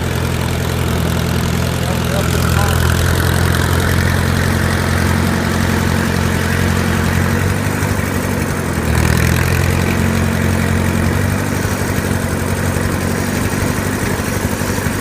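Allis-Chalmers tractor engine running steadily, getting louder about two seconds in and again around nine seconds.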